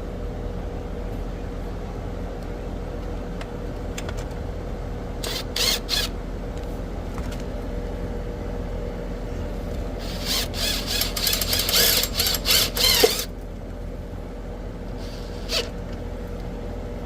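Steady machinery hum, with short scraping clicks and, from about ten seconds in, a few seconds of denser scratchy handling noise: hands working capacitor wires and connectors inside an AC condenser's electrical panel.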